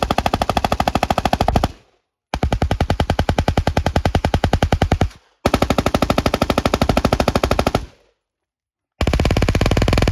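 HK MP5 submachine guns firing long full-auto bursts in turn, about a dozen shots a second. There are four bursts of two to three seconds each, with brief pauses between them.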